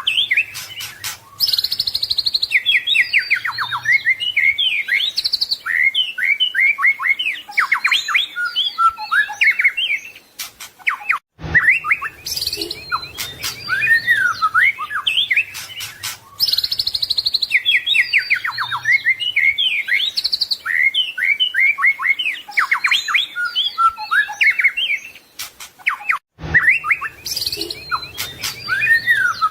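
White-rumped shama (murai batu) singing a fast, varied song of whistles, rapid trills and chatters, full of mimicked phrases. The song breaks off for a moment about eleven seconds in and again near the end, and the same passage then repeats, as in a looped recording.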